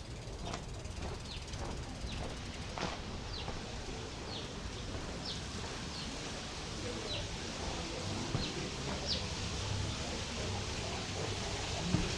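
A small bird chirping repeatedly with short, high notes, about one a second, over a steady low background hum.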